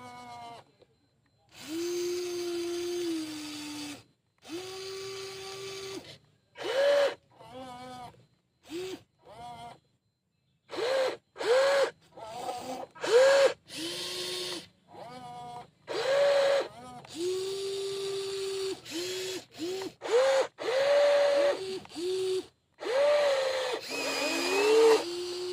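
Remote-control model excavator's electric motors whining in stop-start bursts, each rising in pitch as it spins up. Some runs are held for a second or two and others are quick blips, as the controls are worked on and off.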